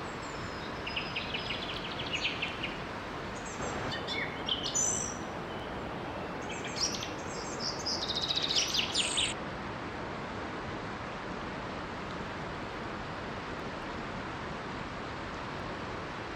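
Songbirds chirping and trilling over the steady rush of a small waterfall; the birdsong stops abruptly about nine seconds in, leaving only the water.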